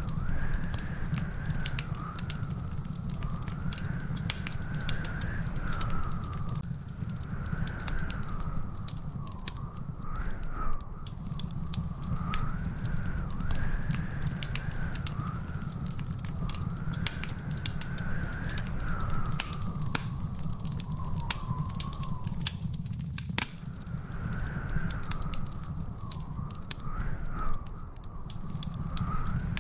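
Wood fire in a fireplace crackling, with frequent sharp pops over a low steady rumble. A thin tone wavers slowly up and down behind it.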